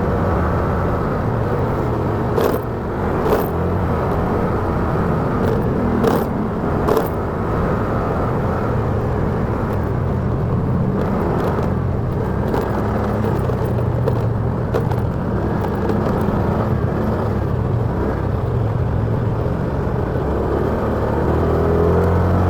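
Motorcycle riding in traffic: engine running steadily under road and wind noise, with a few short sharp knocks in the first seven seconds. Near the end it gets louder with a rising engine note.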